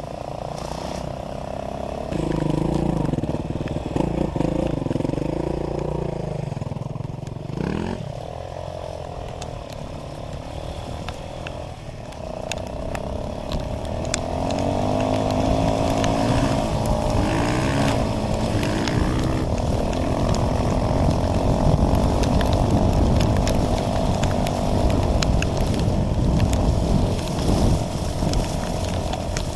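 Off-road dirt bike engine under way, revving up and down repeatedly as it is ridden. It grows louder about halfway through.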